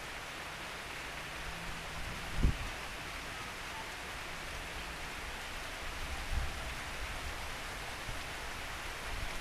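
Heavy rain falling steadily, an even hiss of drops, with one brief low thump about two and a half seconds in.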